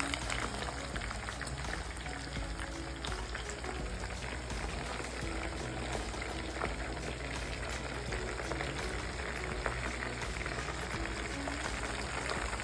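Pork and shrimp rolls frying in hot oil, a steady sizzle with a dense crackle of fine pops, over soft background music.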